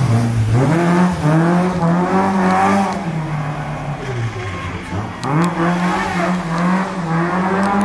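Rally car engine revving hard: it climbs in pitch and holds high, drops off about three and a half seconds in, then climbs and holds high again.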